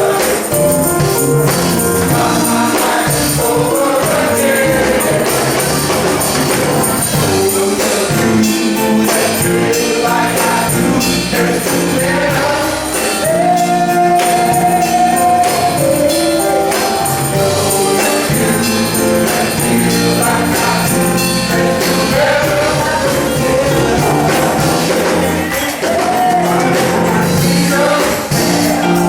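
Male gospel chorus singing a song in the church service, with steady instrumental accompaniment.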